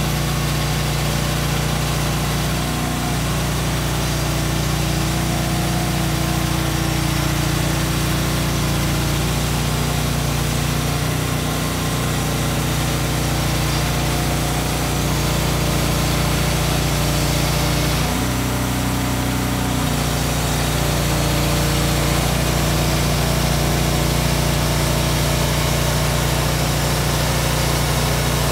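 An engine running steadily, its pitch shifting briefly about 18 seconds in.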